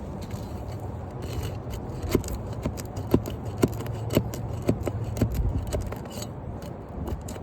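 Nail being pried out from beneath a roof shingle: scraping with a run of sharp metal clicks, about two a second, from about two seconds in until nearly six. The nail is overdriven, which makes it hard to get out.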